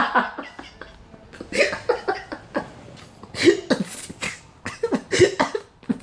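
A person's short, breathy vocal bursts in three or four clusters, about a second or more apart.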